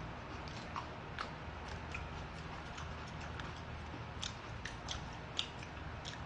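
Close-up chewing and eating: scattered small wet mouth clicks and smacks as two people chew yangjangpi and kkanpunggi fried chicken, over a steady low hum.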